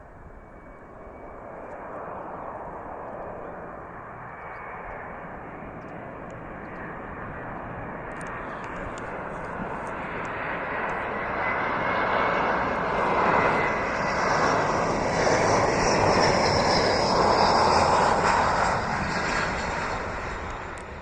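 Jet engine noise from a passing Embraer E175 airliner's two turbofans, a broad roar. It grows louder over about a dozen seconds, holds loudest for several seconds, then eases off near the end.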